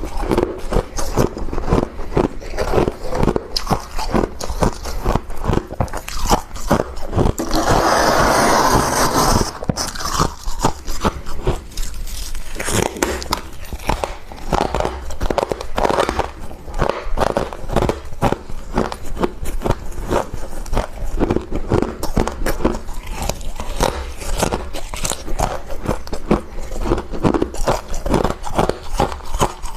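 Close-miked biting and crunching of thick freezer frost: a dense run of sharp crackles and crunches. About a quarter of the way through, a louder, steadier rush lasts about two seconds.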